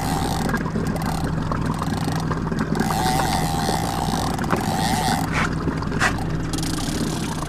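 A boat's motor running steadily, with a wavering whine over it and two sharp clicks about five and six seconds in.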